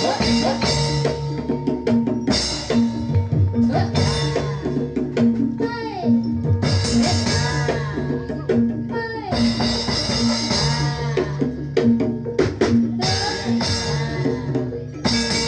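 Live Jathilan accompaniment music: drums and held pitched instrument notes keep a steady beat, with bright cymbal-like hiss recurring every second or two. A wavering voice sings over it now and then.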